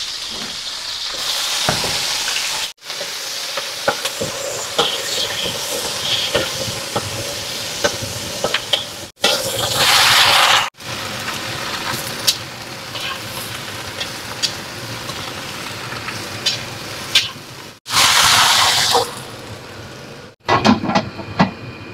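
Stir-frying in a steel wok over a gas flame: a steady sizzle of garlic, spring onions and then cabbage, with the spatula clicking and scraping against the wok. There are louder bursts of hissing about ten seconds in and again near the end, and the sizzle breaks off sharply a few times.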